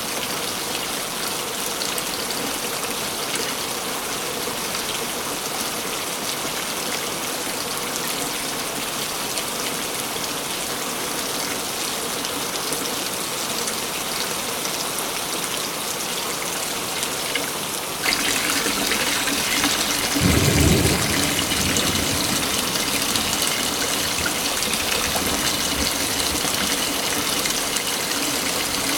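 Waterfall rushing steadily. About 18 s in, the rush abruptly becomes louder and brighter, and a brief low rumble comes about two seconds later.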